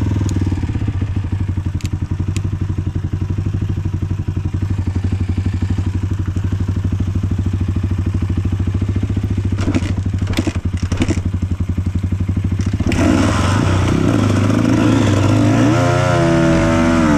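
Enduro dirt bike engine running at low revs with a steady throb, with a few sharp clattering knocks about ten seconds in. It then gets louder about three-quarters of the way through, the revs rising and falling near the end.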